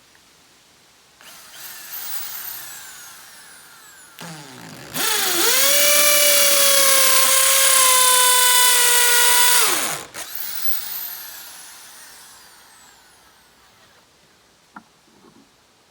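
A small electric motor spins up to speed, runs at a steady pitch for about five seconds, then switches off and winds down. Earlier, a shorter stretch of whirring with falling pitches comes before it.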